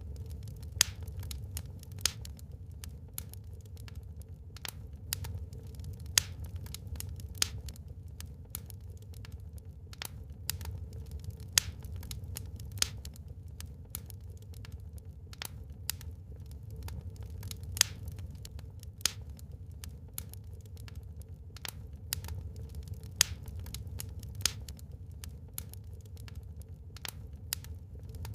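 Wood fire burning in a fireplace: a steady low rumble of the flames with irregular crackles and sharp pops from the burning logs, several of them much louder than the rest.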